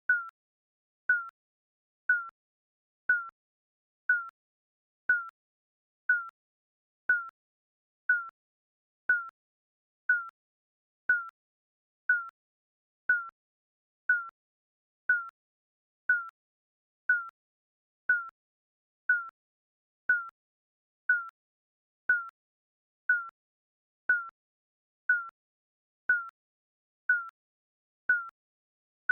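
Digital countdown timer beeping once a second: a short, high electronic beep that dies away quickly, with silence between beeps.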